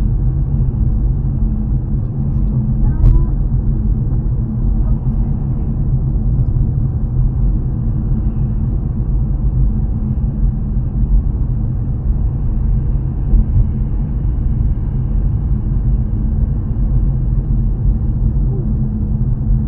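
Steady low rumble of a car driving on a wet, slushy road, heard from inside the cabin: engine and tyre noise. There is a brief click about three seconds in.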